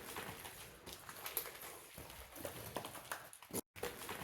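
Boots stepping over a gritty rock floor: irregular crunching footsteps, with the sound cutting out for a moment near the end.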